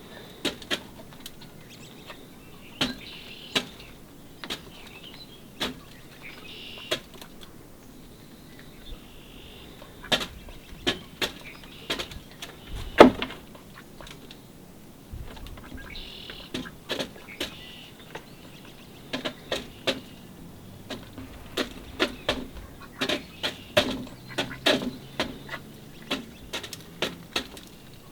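Mallards feeding at a seed dish, their bills making irregular sharp taps and clicks, with faint high bird chirps now and then.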